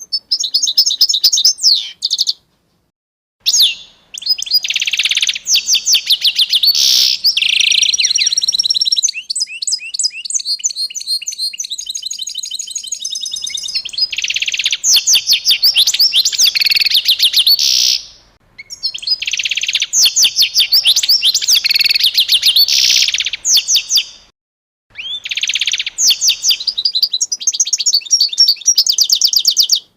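Small songbird singing long phrases of rapid high-pitched trills and chirps, with a few abrupt breaks of silence of about a second.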